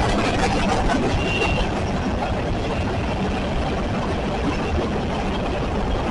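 Train passing: a steady rumble and rattle of rolling rail cars, with a faint brief squeal about a second in. Wind buffets the microphone.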